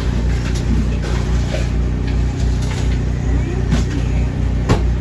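An engine running steadily with a low hum, with scattered clicks and knocks and one sharp knock near the end.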